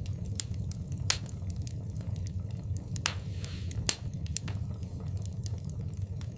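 Wood fire burning in a fireplace: a steady low rumble of flames with irregular sharp crackles and pops, the loudest pops about a second in and near the four-second mark, and a short hiss around three seconds in.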